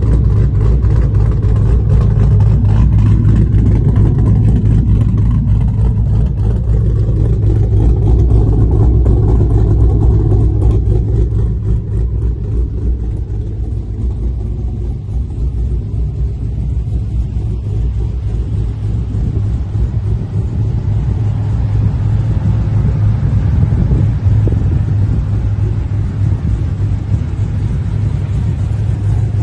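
HSV Maloo ute's V8 engine idling steadily with a deep, low-pitched note. It grows slightly quieter for several seconds in the middle.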